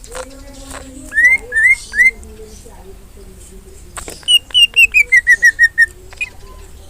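Cucak ijo (green leafbird) singing: three short rising whistles, then after a pause a quick run of about ten clear notes stepping down in pitch.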